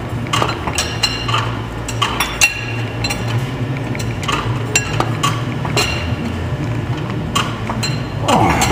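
Irregular metallic clinks and taps of hand tools on steel, typical of wrenches working the bolts while splitting a tractor, over a steady low hum. Near the end a louder sound slides down in pitch.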